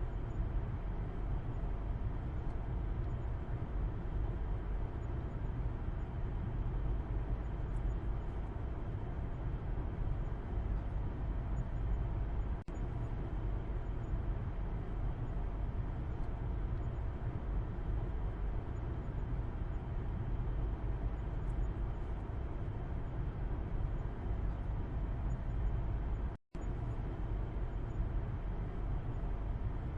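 Steady road and engine rumble inside a moving car, heard from the back seat, with a deep low drone and a hiss of tyre noise. The sound cuts out for a split second near the end.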